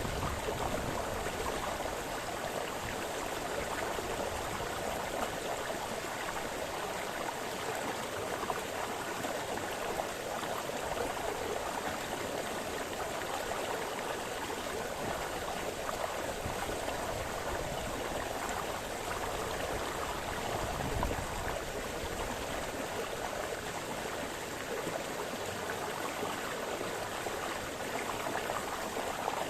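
A small brook running and splashing over stones, a steady, even water noise.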